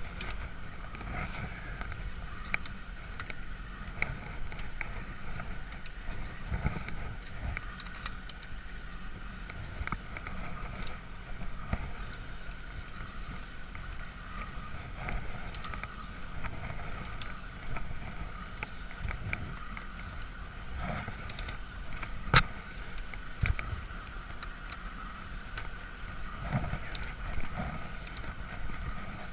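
A steady engine-like drone with scattered clicks and knocks, the sharpest knock about 22 seconds in.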